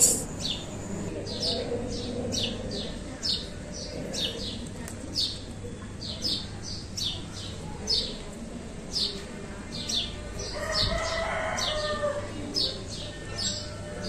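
A small bird chirping over and over, short high chirps two or three a second. A brief lower-pitched sound comes about eleven seconds in.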